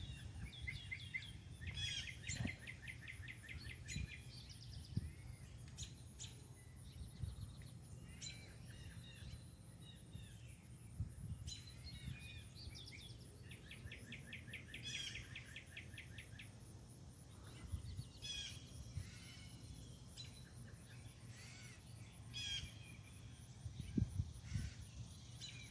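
Small birds singing and chirping, with a fast trill of repeated notes about two seconds in and again past the middle, over a faint steady low rumble.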